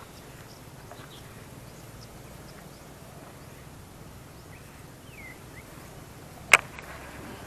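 Scattered short bird chirps over a faint steady outdoor background, with one sharp click about six and a half seconds in.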